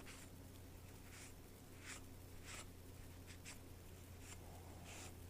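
Lansky 280-grit medium honing stone drawn across a knife edge in about eight faint, short scraping strokes, over a low steady hum.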